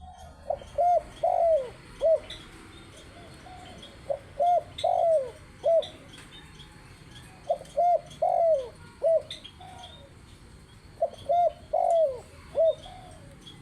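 Spotted dove cooing: four repeated song phrases of a few low, downward-bending coos each, roughly every three and a half seconds.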